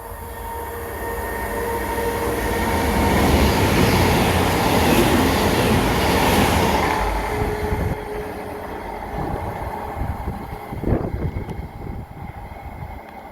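A passenger train passing along the line. Its rumble and wheel noise build to a peak through the middle, with a sharp loud burst about two-thirds of the way in, then fade as it moves away.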